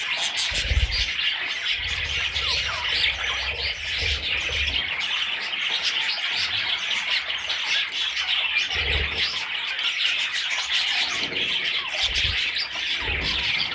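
A flock of budgerigars chattering, with a continuous dense warble of chirps and squawks.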